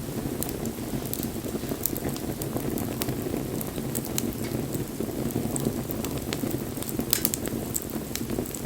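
Wood bonfire burning: a steady rush of flames with many small crackles and pops scattered throughout.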